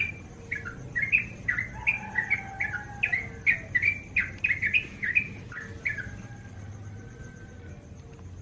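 Yellow-vented bulbul (crukcuk) singing: a rapid string of short, bubbling, gliding notes, about two to three a second, that breaks off about six seconds in.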